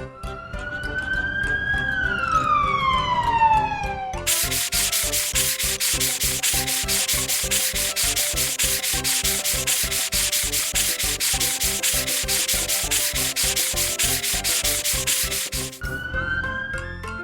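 Cartoon sound effects over upbeat children's background music: a whistle-like tone that rises briefly and then slides down over about four seconds, followed by a long, fast-pulsing hiss lasting about twelve seconds, then a new rising glide near the end.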